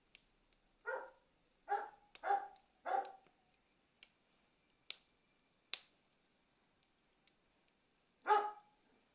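A dog barking: four short barks in quick succession, then one more near the end. In between come a few sharp pops from a crackling campfire.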